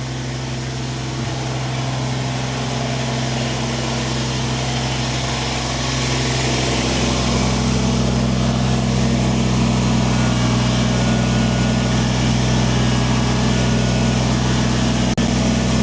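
Kubota tractor's diesel engine running steadily as the loader works, getting a little louder about six seconds in. A brief click near the end.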